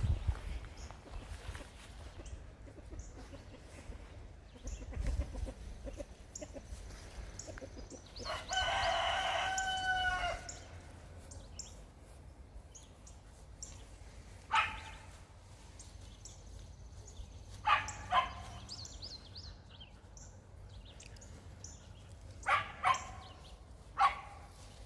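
A rooster crows once, about eight seconds in, a single call lasting about two seconds. Chickens give about half a dozen short calls later on.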